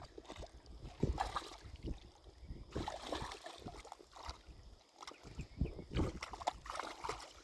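Shallow water splashing and sloshing in irregular bursts, stirred up by a dog going after a crab.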